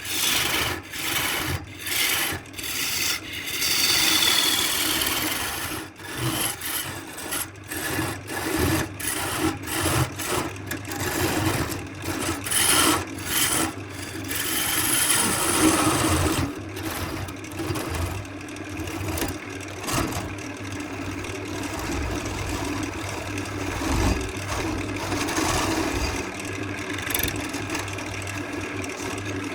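Wood being rasped or rubbed by hand in quick repeated strokes, about two a second at first. Past halfway the strokes run together into a steadier, even scraping.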